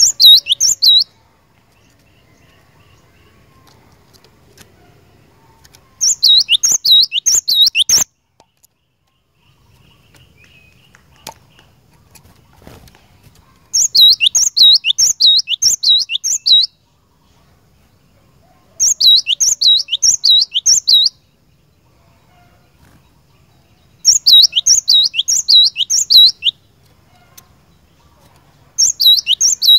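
Cinereous tit (gelatik batu) singing: six phrases of rapid, high repeated notes, each phrase about two seconds long with pauses of a few seconds between them.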